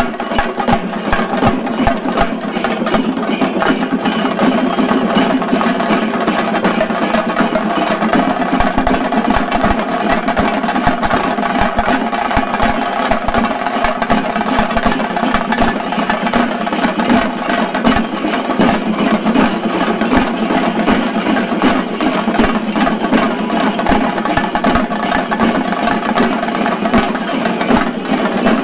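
Shinkarimelam ensemble of chenda drums playing a loud, fast, unbroken rhythm, the stick strokes running together into a dense roll.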